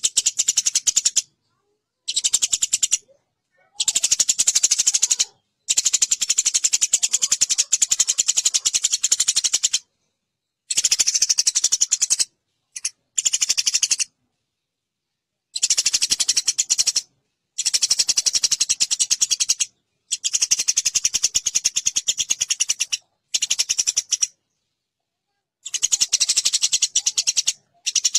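Eurasian tree sparrows fighting, giving rapid chattering trains of high notes in bursts of one to four seconds, broken by short silent gaps.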